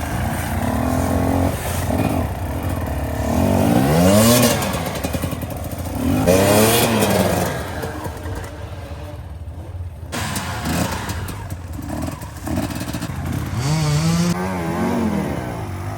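Off-road motorcycle engine revving up and dropping back several times, the loudest revs about four and seven seconds in.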